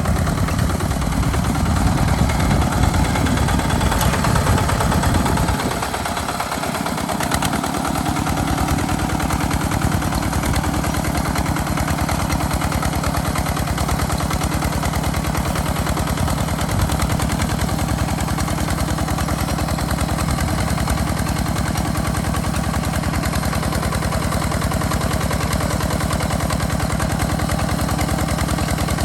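Tractor engine running with a rapid chugging beat. It is louder for the first five seconds, drops briefly about six seconds in, then settles into a steady, even run.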